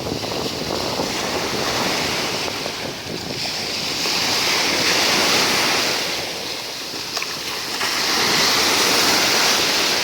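Black Sea surf washing onto the shore, the hiss of the waves swelling and falling back in slow surges, loudest about halfway through and again near the end. Wind buffets the microphone.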